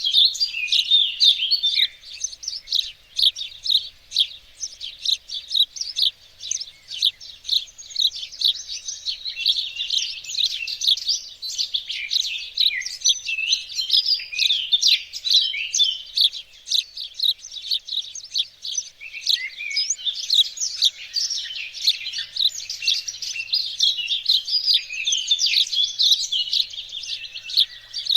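Songbirds singing together in a dense, continuous chorus of quick, high chirps and short phrases overlapping one another.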